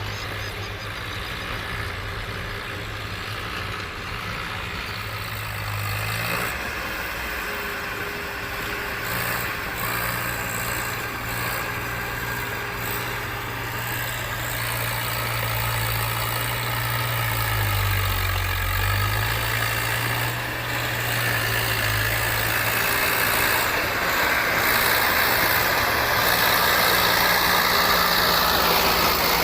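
Diesel tractor engines running, their low note shifting up and down in pitch, growing louder towards the end.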